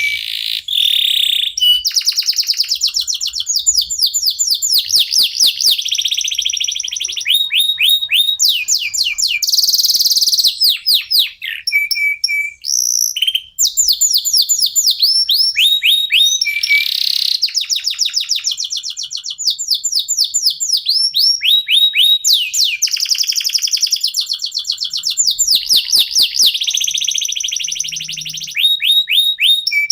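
Domestic canaries singing continuously, long runs of rapid repeated trills and rolls, several birds joining in.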